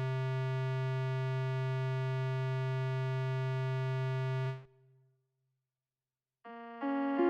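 A single synthesizer note held steady for about four and a half seconds, then cut off. After a short silence, synth chords come in near the end.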